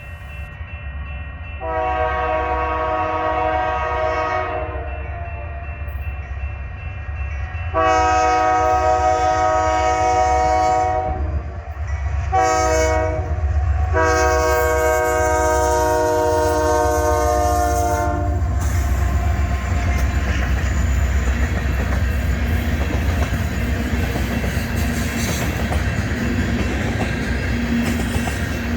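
Freight train's diesel locomotive horn sounding the grade-crossing pattern, long, long, short, long, over the low rumble of the engines. The loaded hopper cars then roll past with a steady clatter of wheels on the rails.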